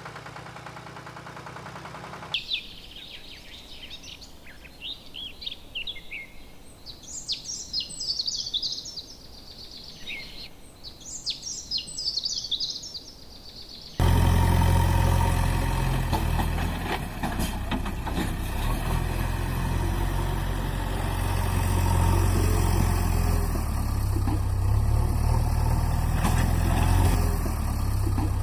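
Birds chirping, then about halfway through a sudden cut to a loud, steady, low engine drone.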